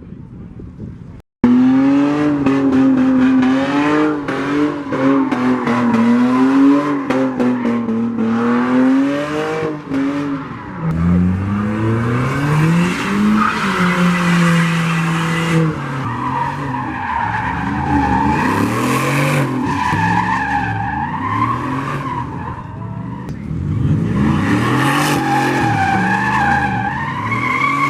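Car engine revving hard with its pitch rising and falling, while its tyres squeal and skid in a sustained burnout or donut. It starts abruptly about a second in, and the wavering squeal comes through more strongly in the second half.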